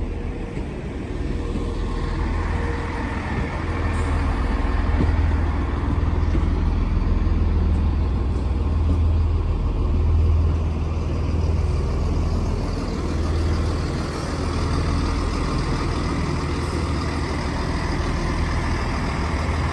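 A diesel multiple unit's underfloor engines run with a steady low drone as the train creeps slowly in to stop at the platform.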